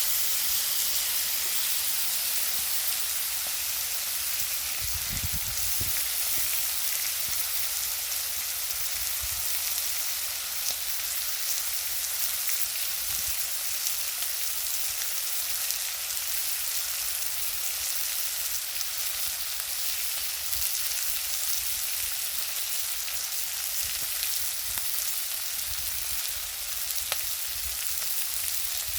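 Food sizzling steadily on a grill over a wood fire, a continuous hiss with faint scattered crackles.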